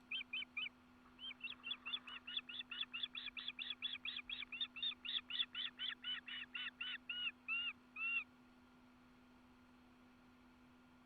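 A bird calling a long series of about thirty clear, arched notes, about four a second. There is a short break near the start, the last few notes are slower and drawn out, and the calling stops about eight seconds in. A steady low hum runs underneath.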